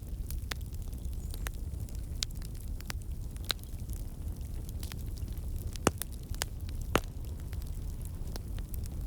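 Wood fire crackling in a fireplace: a steady low rumble of flames with scattered sharp pops and snaps, two louder pops about a second apart past the middle.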